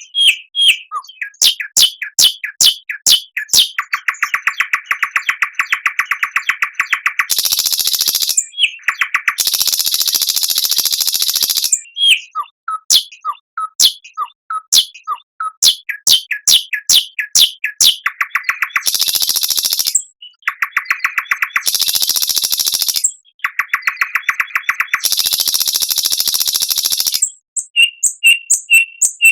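Recorded songbird singing a varied song. It alternates runs of rapid sharp whistled notes, buzzy trills held for two or three seconds, and harsh hissing phrases.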